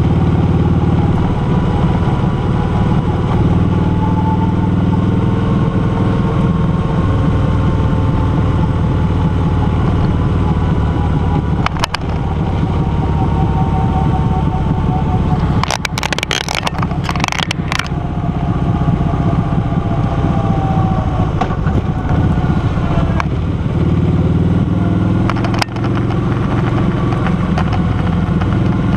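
Car engine running steadily at cruising speed, with road and wind noise from the drive. A short cluster of sharp crackles comes about halfway through.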